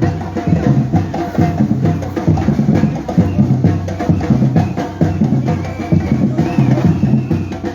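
Batucada drum group playing a fast, steady street rhythm: dense, rapid drum strokes with bass drums and sharp wood-block or snare clicks.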